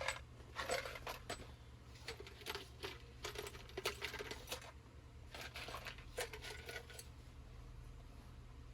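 Small metal screws clinking and rattling as they are picked through in a container of screws: a run of light, irregular clicks over a faint low hum.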